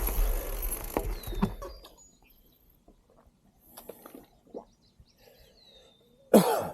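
Rolling and wind noise of a gravel bike on a trail, dying away over the first two seconds as the bike slows. Birds then chirp with short falling whistles, and there is one brief loud sound near the end.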